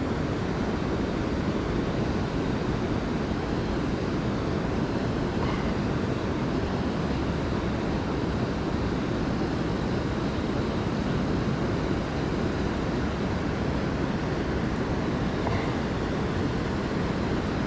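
Steady rushing of river water as the kayak drifts down a current through shoals, an even noise heaviest in the low end with no breaks.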